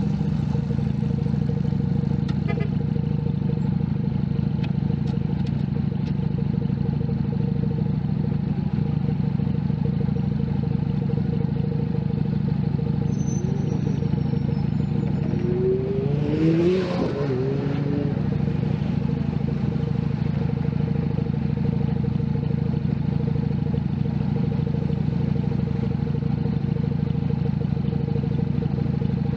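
Junak M11 Cafe 125cc motorcycle engine running at a steady note. About halfway through there is a brief swell of changing pitch and louder noise.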